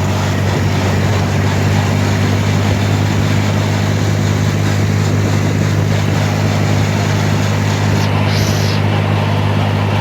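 A vehicle's engine running loud and steady at constant revs, with a brief hiss about eight seconds in.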